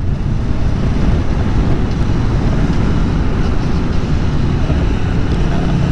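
Riding noise on a 2019 Aprilia Tuono V4 Factory: steady wind rush and road roar, with the V4 engine running underneath. About four and a half seconds in, a steady low engine hum comes up.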